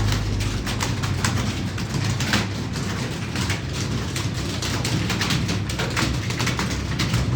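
Computer keyboard typing: a quick, irregular run of key clicks over a low steady hum.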